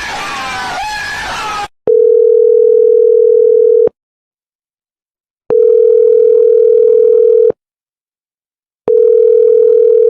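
Telephone calling tone: a steady beep about two seconds long, sounding three times with short silent gaps between. Before the first beep, a brief stretch of other sound with gliding pitches cuts off.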